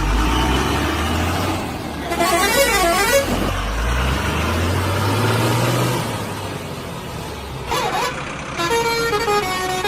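A vehicle engine running with a low rumble, while a horn sounds a fast warble twice and then plays a tune in short stepped notes, like a musical truck horn.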